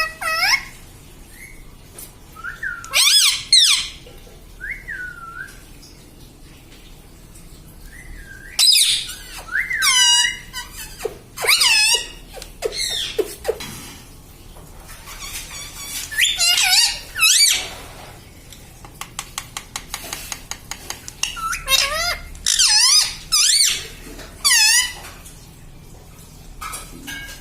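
Pet parrot calling in groups of short, sharp, high-pitched squawks and chirps that bend up and down in pitch, with a quick run of faint clicks between two of the groups.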